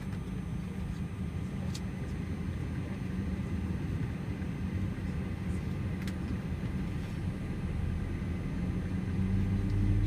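Steady low rumble of an Airbus A320's cabin on the ground, with a few faint clicks; near the end a deeper rumble swells and grows louder.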